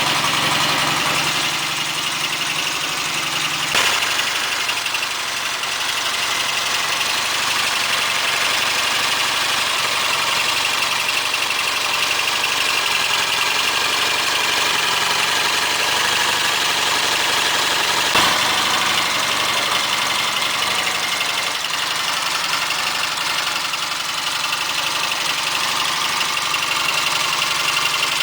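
The freshly rebuilt 1959 Matchless G15/45 parallel-twin engine in a Rickman Metisse motorcycle running steadily at idle, its carburettor jetting newly set up. A brief sharp knock sounds once about four seconds in and again about eighteen seconds in.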